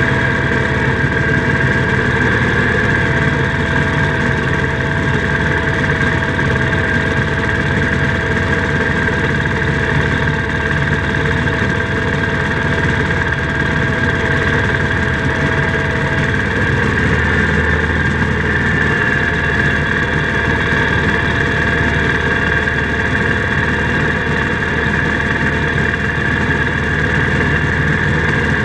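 International Harvester Cub Cadet 147 garden tractor's 14 hp single-cylinder engine running steadily, its note shifting slightly about halfway through.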